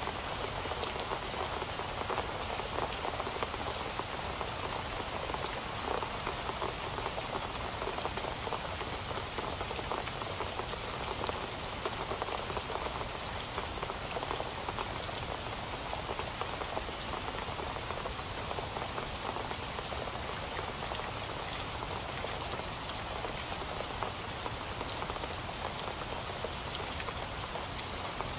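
Steady rain falling on a surface, a continuous even patter with many individual drops ticking.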